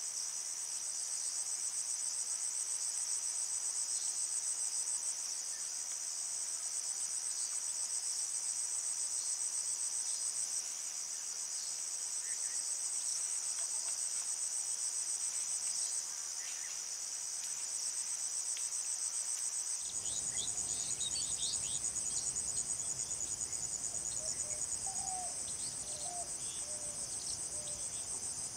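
A chorus of insects trilling steadily in a high, finely pulsing drone. About two-thirds of the way through, a low rumble comes in underneath, with a few faint short chirps above it.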